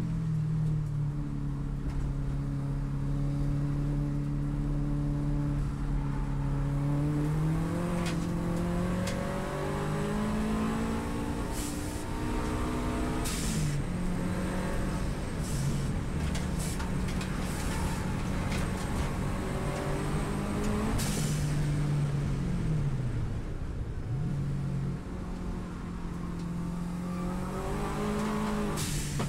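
Subaru WRX STI's turbocharged flat-four engine under hard driving on a race track, its pitch holding steady, then rising and falling several times with throttle and gear changes. A few short bursts of hiss come near the middle and again near the end.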